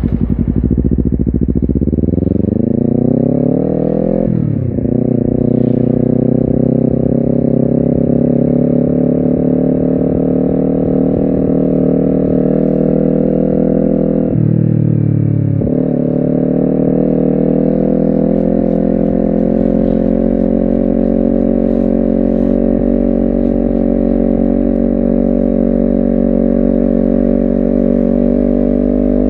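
Honda CBR250RR motorcycle engine pulling away and accelerating. The revs climb and drop sharply at an upshift about four seconds in, then climb again to a second gear change at about fifteen seconds. After that it cruises with the revs holding steady and slowly rising.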